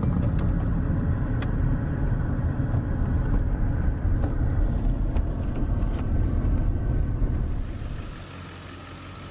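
A car driving, with a steady low road-and-engine rumble; it drops away about eight seconds in, leaving a quieter steady hum.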